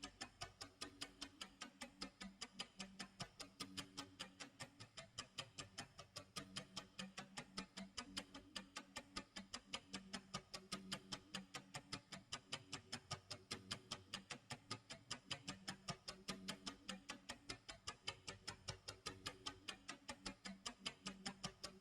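Clock tick-tock sound effect: a quick, even ticking that never stops, with faint low tones underneath.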